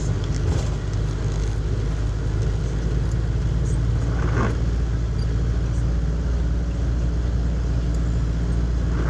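Steady road noise inside a moving car: a low engine and tyre rumble with a constant hiss above it, and a brief swish about four seconds in.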